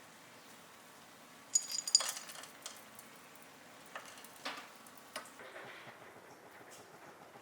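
Kitchenware being handled: a quick run of ringing clinks about one and a half seconds in, then a few light, separate knocks.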